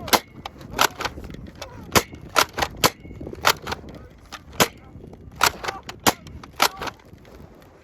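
Nerf blasters firing: a quick, irregular string of sharp pops, about a dozen shots, some coming in rapid pairs and triplets.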